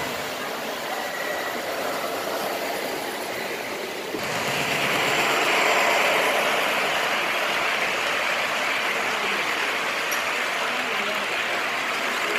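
O scale two-rail model train running on the layout track: a steady rolling and motor noise that gets suddenly louder about four seconds in.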